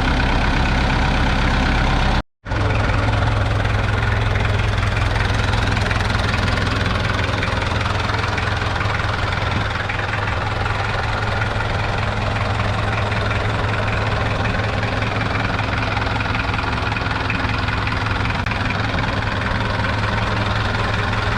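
Massey Ferguson 130's 1.8-litre four-cylinder diesel engine idling steadily. The sound cuts out completely for a moment about two seconds in, then resumes.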